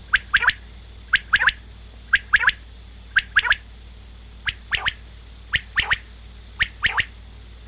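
Common quail calling its sharp three-note 'wet-my-lips' song, about once a second, seven times in a row.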